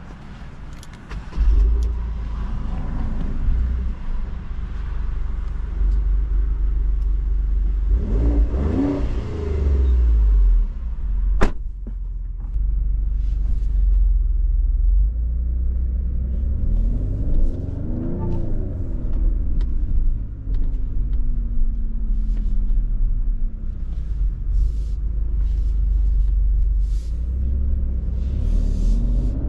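Maserati Grecale Trofeo's twin-turbo V6 running with a deep low sound, its revs rising and falling several times and climbing again near the end. A single sharp crack about eleven seconds in.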